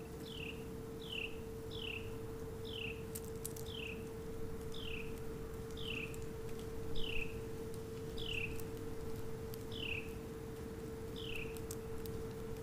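A songbird repeating one clear, downslurred whistled note about every two-thirds of a second, some eleven times in a row, over a steady low hum.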